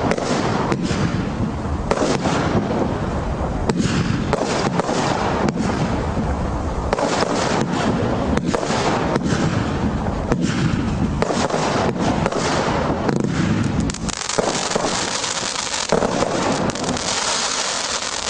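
Fireworks going off in a dense, near-continuous barrage of bangs over crackling bursts, with a brighter stretch of crackle near the end.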